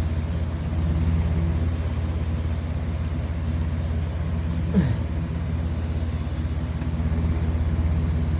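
Metal-frame Aerospeed box fan running on high: a steady low hum with rushing air. About five seconds in there is one short tone, falling in pitch.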